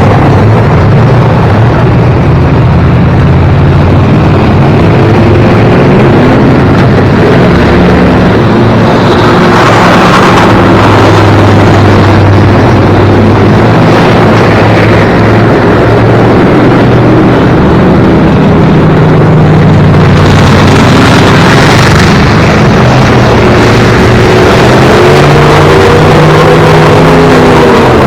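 Car engines running hard and revving on a speedway track as the cars race towing boats behind them, their pitch rising and falling as they accelerate and back off. The sound is very loud and stays at the same high level throughout.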